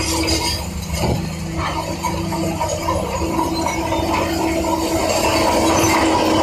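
A large engine running steadily with a low rumble and a held hum, growing a little louder near the end.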